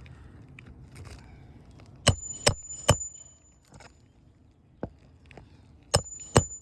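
Hammer blows on roofing nails while a replacement asphalt shingle is fastened: three sharp strikes in quick succession about two seconds in, then two more near the end, the hardest ones leaving a brief high metallic ring.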